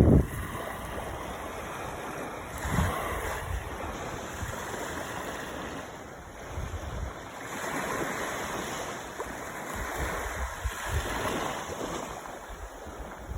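Sea waves washing in and out, swelling and fading over several seconds, with strong wind buffeting the microphone in gusts.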